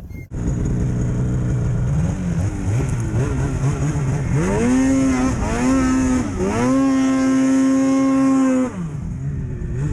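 A vehicle engine revving: it wavers at low revs, climbs steeply about halfway through, dips briefly twice, holds at high revs, then backs off near the end.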